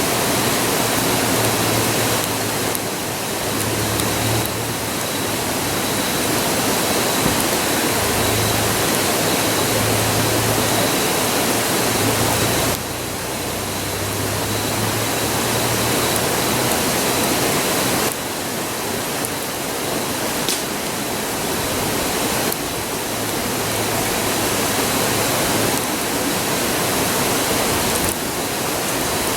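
A river rushing in a steady, unbroken roar.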